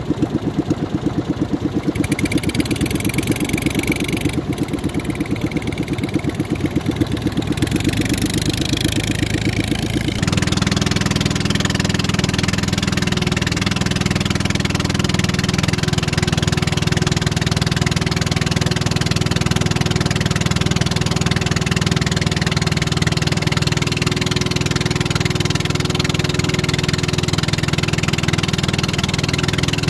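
Motorboat engine running at low speed with a rapid pulsing beat, then throttled up about a third of the way in and running louder and steadier.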